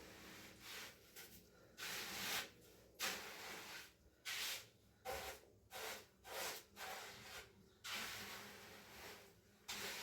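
A hand tool scraping over cement in about a dozen repeated strokes of uneven length, with short pauses between them.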